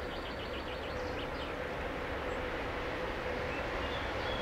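Container freight train approaching from a distance: a steady low rumble with a held hum, growing slowly louder as it nears.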